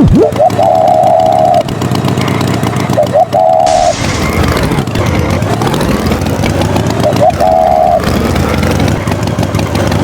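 Engine running steadily, a tractor sound effect, with a higher held tone that comes back about every three and a half seconds. About four seconds in the pitch falls and then rises again.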